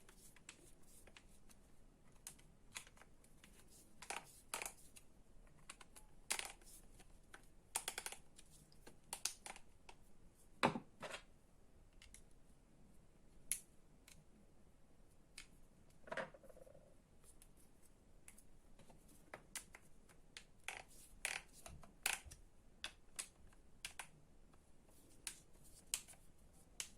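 Irregular light clicks and knocks of small plastic and metal parts being handled and fitted together while an electric string trimmer's motor assembly is put back together, the loudest knock about ten seconds in.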